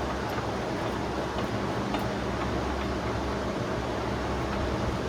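Steady low background hum, with a few faint metallic clicks as the prop shaft is worked into the outboard's gearcase.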